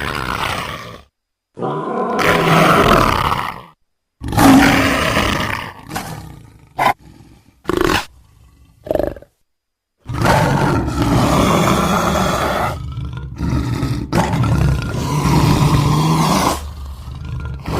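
Big-cat roars edited into a creature sound effect for Barbourofelis, built from big-cat recordings. In the first half there are several short roars, each cut off abruptly into dead silence. From about ten seconds in comes one long unbroken run of roaring.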